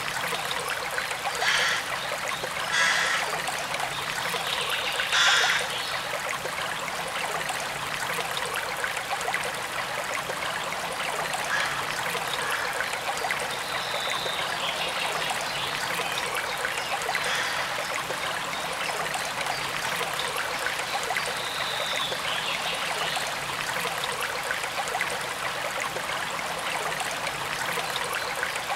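Forest stream running steadily, with three brief louder surges of water in the first several seconds.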